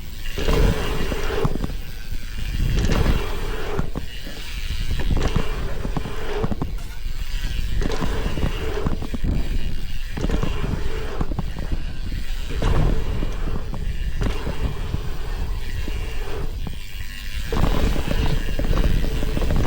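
Mountain bike being ridden over dirt jumps: wind rushing over the microphone and tyres rolling on dirt, with a steady buzz that comes and goes every couple of seconds.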